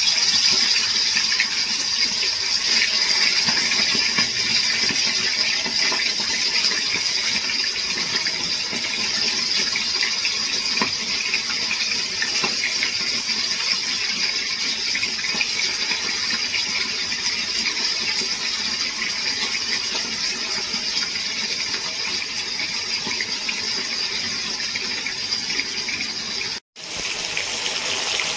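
Turmeric-coated chicken pieces sizzling steadily in hot oil as they start to fry, with a break of an instant near the end.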